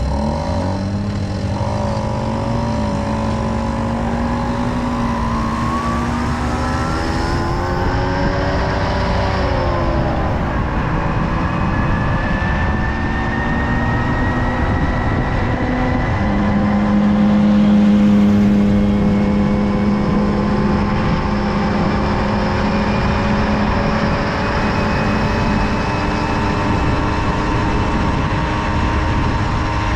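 Tomos Silver Bullet moped's small two-stroke engine running while riding. Its pitch jumps up at the start and climbs and dips over the first ten seconds as the throttle changes, then holds fairly steady with a slow rise.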